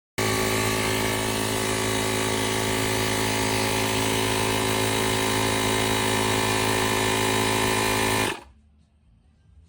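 12V portable air compressor (tire inflator) motor running steadily, starting abruptly and cutting off about eight seconds in.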